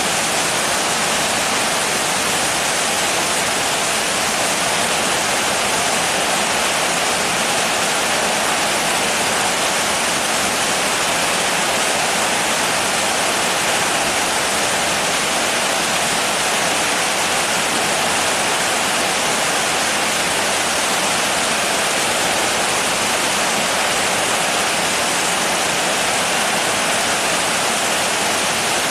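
Steady heavy rain, a dense, even hiss with no distinct drops or changes.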